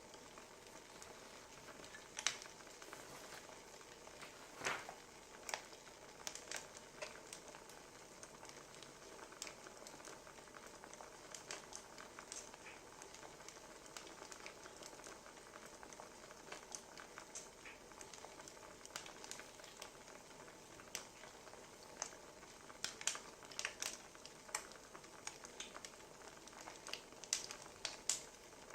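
Wood fire crackling: a low steady hiss with irregular sharp pops and snaps, the loudest about five seconds in and a cluster near the end.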